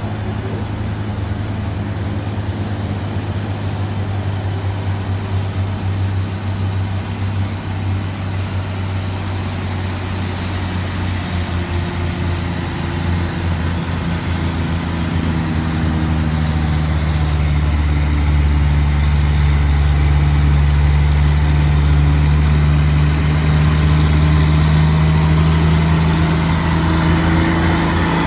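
A truck's engine running steadily at low, even revs, growing louder about halfway through and staying loud.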